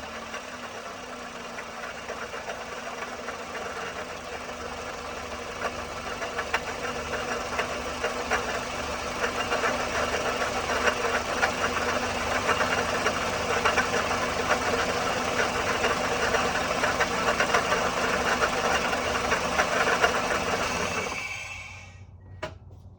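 Toyota 1ZZ-FE four-cylinder engine at operating temperature idling with a fast ticking rattle, the engine noise the owner is documenting. The rattle grows louder partway through. The engine is switched off near the end, followed by a single click.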